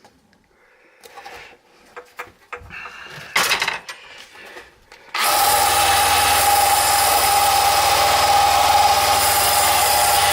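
A few light handling clicks and knocks, then about five seconds in a small handheld power tool starts abruptly and runs steadily with a high whine, working on the fuel tank to tidy up the area around the petcock fitting.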